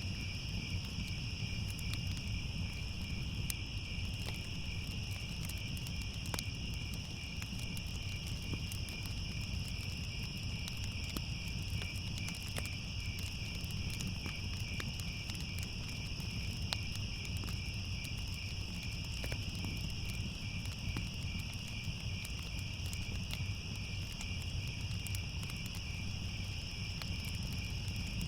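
Crickets chirping in a steady, unbroken high trill, over a low steady rumble with scattered faint crackles of a wood fire.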